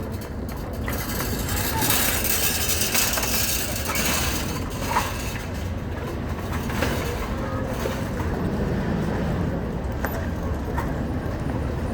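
Steady vehicle rumble, with a louder surge of hiss for a few seconds about a second in, as of a vehicle passing.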